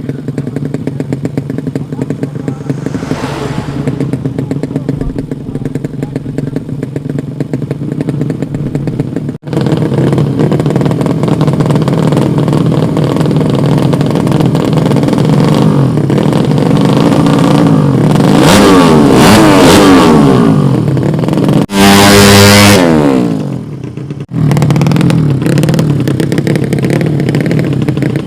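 Tuned drag-racing motorcycle engines running and revving, with the pitch rising and falling as they are blipped. The loudest burst comes about three quarters of the way through, and the sound breaks off abruptly twice.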